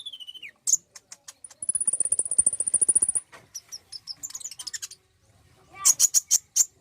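Sunbird (konin) song: a falling whistle, then a fast high trill lasting about a second and a half, scattered sharp chips, and a loud cluster of chips near the end.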